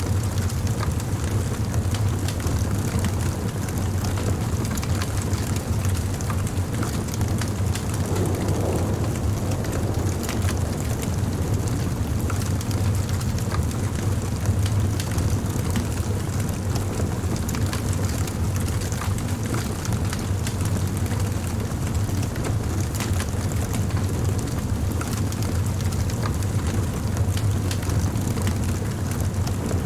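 Wood fire burning, crackling with scattered sharp pops over a steady low rumble.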